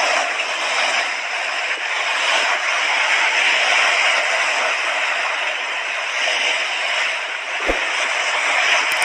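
Mediterranean sea waves washing onto the shore, a steady hiss of surf that swells and eases slowly. A brief dull bump sounds near the end.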